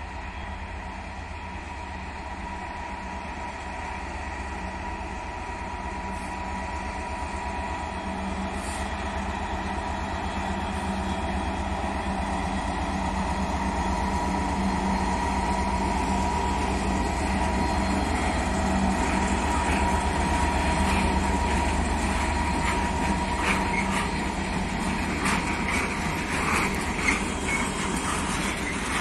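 Train approaching and growing steadily louder, with a low rumble and a steady high whine; wheel clicks on the rails begin near the end.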